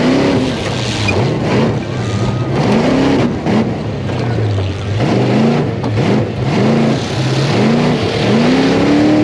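Tough-truck race engines revving hard and backing off over and over. The pitch climbs and drops in several short surges as the trucks accelerate through the course.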